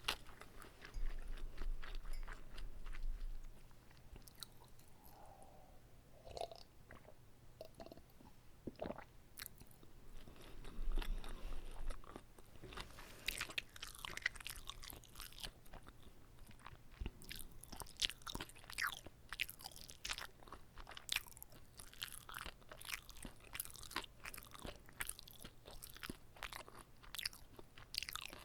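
Close-miked chewing of a whole kimbap roll: many short wet mouth clicks, with louder stretches of biting and chewing about a second in and again around ten seconds in.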